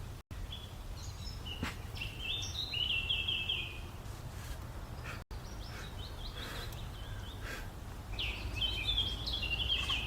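A songbird singing three bursts of quick chirping phrases over a steady low background rumble.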